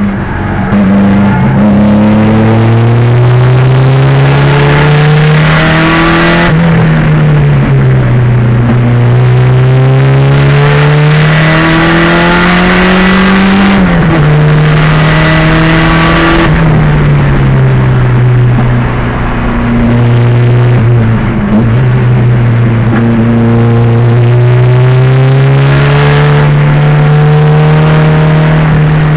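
1987 Pontiac Fiero race car with a 2.0-litre turbocharged engine, driven hard on track. The engine note climbs steadily under acceleration and drops suddenly at each gear change. It falls away for a few seconds in the middle as the car slows, then climbs again and holds steady near the end.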